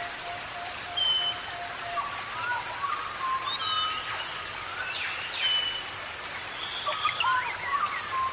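Birds whistling and chirping in short, clear notes and quick slides, over a steady hiss of rain.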